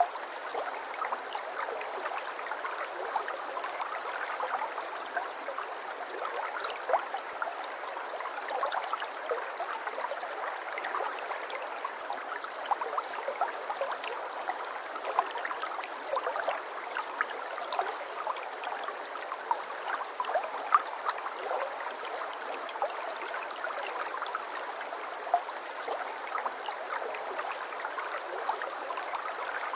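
A shallow brook babbling over stones: a steady rush of water with many small splashes and gurgles, and no low rumble.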